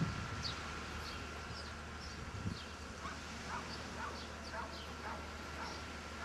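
Small birds chirping: short, high, falling chirps about twice a second, dropping lower in pitch about halfway through, over a steady low background hum.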